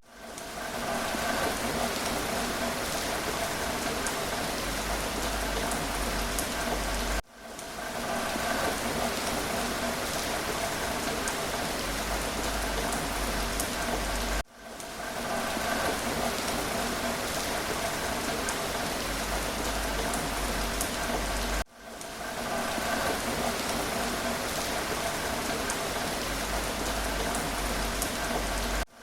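Steady rain falling, an even hiss with scattered drop ticks. About every seven seconds it cuts out for an instant and fades back in: the seam of a short looped rain recording.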